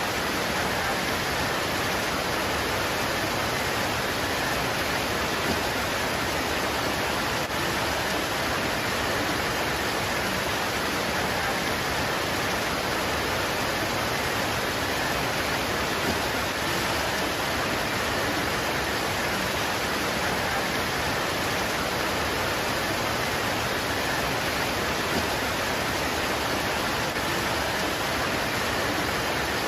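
Rain pouring steadily onto leaves: an even, unbroken hiss with no single drops standing out.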